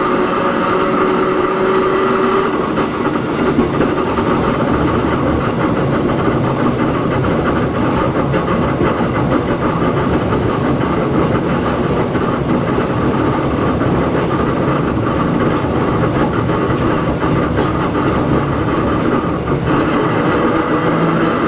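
Hakone Tozan Railway Moha 1 type electric car No. 106 running, heard on board: the whine of its nose-suspended SE121-A traction motors and gears, over wheel-on-rail rumble and clatter. The whine drops away about two seconds in, leaving the wheel and rail noise, and comes back near the end.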